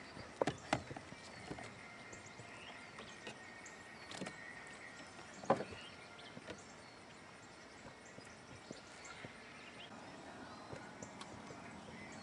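A few sparse knocks and taps on a plastic fishing kayak, the loudest about five and a half seconds in, over a faint outdoor background.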